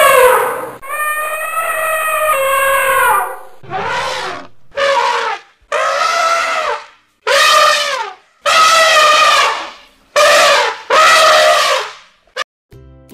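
African elephants trumpeting: a string of about nine loud trumpet calls, each rising and then falling in pitch, the first two long and the rest shorter, separated by brief silences.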